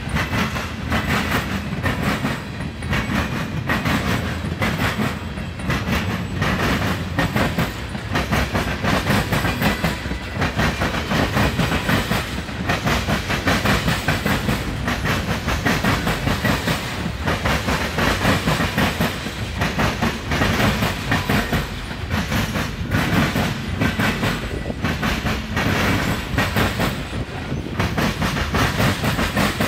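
Freight cars of a passing Norfolk Southern manifest train rolling by, their wheels clicking over the rail joints in a steady, rapid rhythm over a continuous low rumble.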